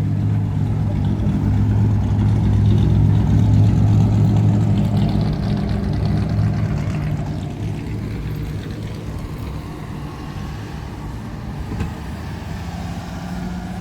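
A vehicle engine running close by with a steady low hum. It is loudest about four seconds in, then slowly fades.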